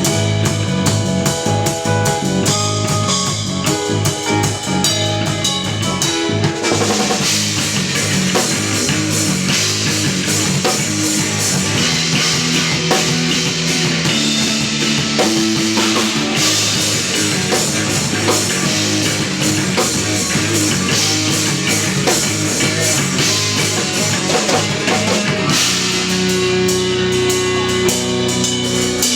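Live instrumental post-rock played on electric guitar, electric bass and drum kit. About seven seconds in, the band swells into a louder, denser passage that fills the high end. Near the end it eases back to sparser, sustained guitar and bass notes.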